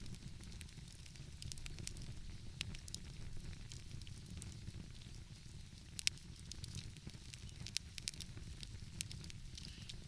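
Wood fire crackling, with irregular sharp pops and snaps (the loudest about six seconds in) over a steady low rumble.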